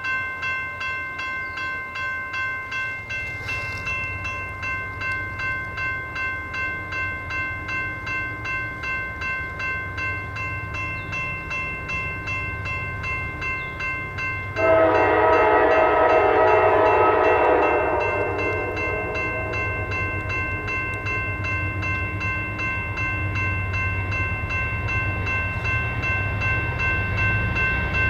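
Grade-crossing bell ringing steadily about twice a second under the low rumble of a freight train's diesel locomotives working hard as they approach. About halfway through, the locomotive's air horn sounds one loud blast of about three seconds.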